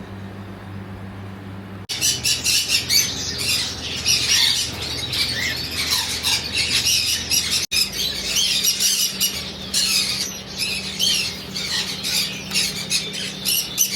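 Dense chatter of many caged birds, overlapping high-pitched chirps and squawks that start suddenly about two seconds in and keep going, after a steady low hum at the start.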